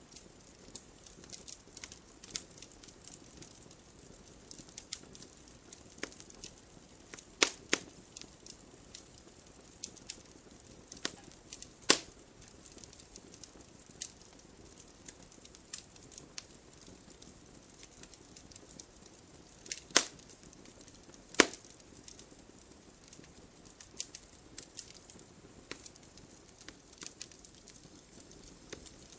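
Wood fire crackling: a constant scatter of small sharp crackles over a faint hiss, with a few loud pops about 7, 12, 20 and 21 seconds in.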